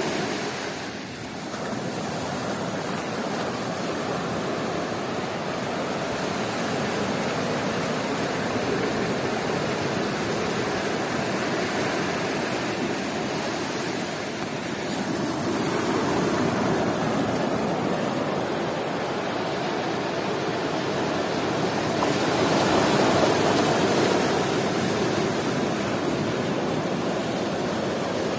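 Sea waves breaking and washing on a beach in a continuous rush of surf, swelling louder about halfway through and again near the end.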